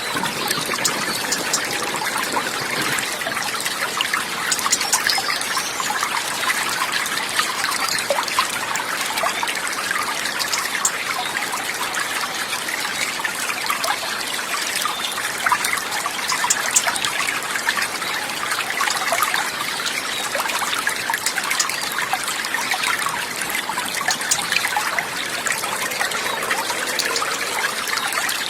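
Running water trickling and babbling steadily, with many fine splashing ticks over a constant rush.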